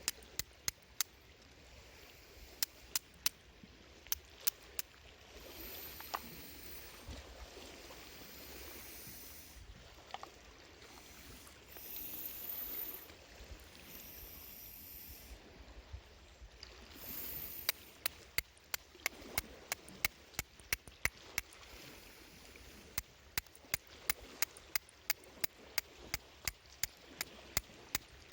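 Small wood fire crackling with many sharp pops and clicks, in irregular clusters of a few per second, over a soft wash of water sound.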